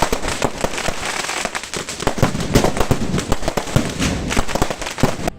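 Fireworks going off in a dense, rapid barrage of overlapping cracks and bangs, which break off for a moment near the end.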